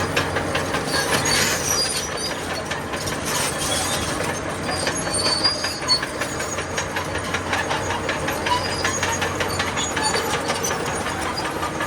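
Bulldozer's diesel engine running steadily while its steel crawler tracks clank and rattle, with short high-pitched squeals from the track links.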